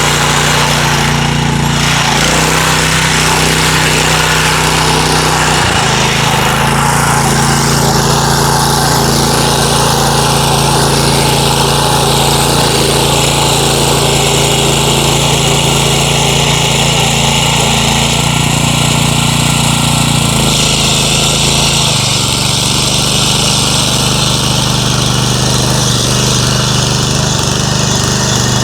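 A 9 hp petrol engine running steadily and loudly, its speed shifting slightly a few times.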